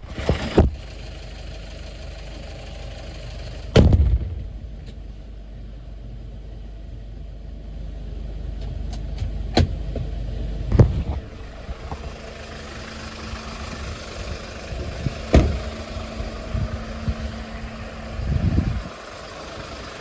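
Hyundai Porter II truck engine idling steadily, with several sharp bangs a few seconds apart over it.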